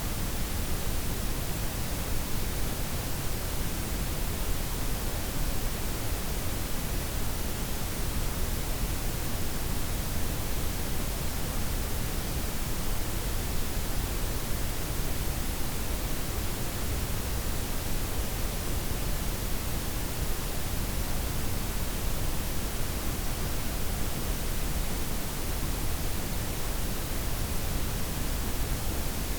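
Synthetic blend of white, pink and brown noise: a steady, even hiss with a deep rumbling low end and softened highs, unchanging throughout.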